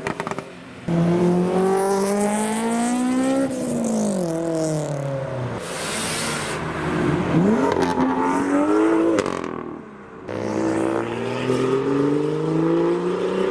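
Modified cars accelerating away one after another, each engine note rising as it revs up and then dropping away, with a short hiss about six seconds in.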